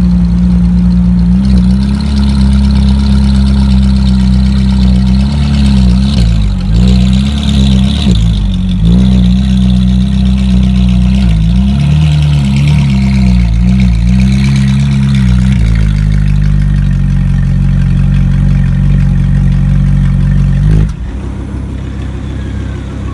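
Ferrari 458's V8 idling loudly close to the exhaust, blipped in a string of short revs in the middle, then settling back to a steady idle; the sound drops off sharply near the end.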